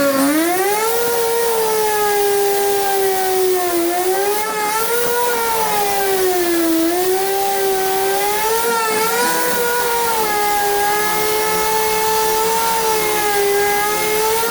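Electric cutting power tool running with a continuous high motor whine that sags in pitch as it bites into the material and recovers as the load eases. The pitch drops most just before the start and again around four and seven seconds in, then holds fairly steady.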